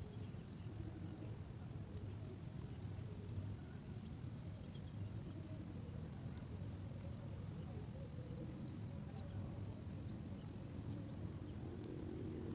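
Insects trilling in a steady, high-pitched drone, over a low rumble.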